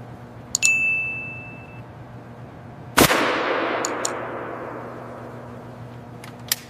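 Metal workshop sounds: a sharp click with a short ringing ding about half a second in, then a loud metallic clang about three seconds in that fades slowly, with a few light metal ticks after it.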